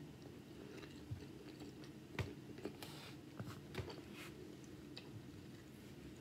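Close-miked chewing of a mouthful of seasoned rice and barbecue chicken, with scattered sharp wet clicks and smacks, the strongest a little over two seconds in, over a steady low hum.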